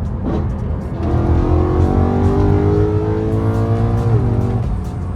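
BMW E92 M3's V8 engine pulling hard under acceleration, its pitch rising steadily for about three seconds, then dropping sharply at an upshift about four seconds in.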